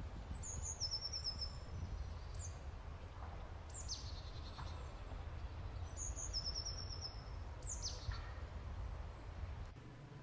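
Songbirds calling over a low, steady outdoor rumble. A short, stepped trill falls in pitch twice. Between the trills come several sharp, quickly falling whistled notes.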